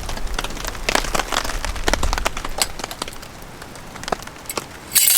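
Rain falling in irregular drops and taps, with a low wind rumble that fades after about three seconds. A short, loud rush of noise comes near the end.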